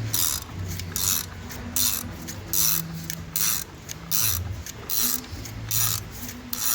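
A ratchet wrench being worked in steady strokes, a burst of ratcheting clicks about once a second, as it turns a threaded rod in a homemade puller that draws a skid steer's over-the-tire tracks together.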